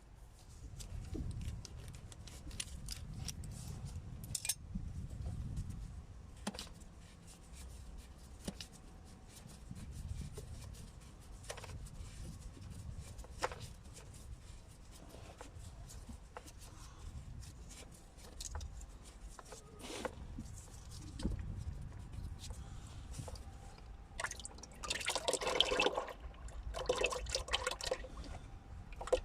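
Engine oil running and dripping from an Audi RS3's sump into a drain pan, with scattered small clicks and knocks. It grows louder for a couple of seconds near the end.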